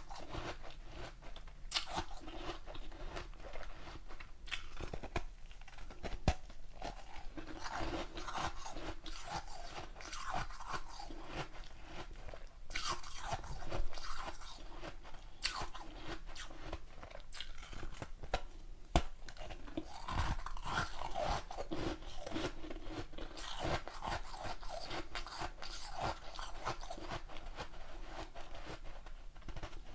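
Close-miked crunching and chewing of ice: irregular, crackly crunches of frozen chunks being bitten and ground between the teeth, with a few sharper snaps as pieces break off.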